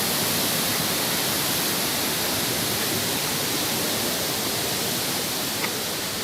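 Steady rush of falling water, an even hiss with no let-up. There is a faint click near the end.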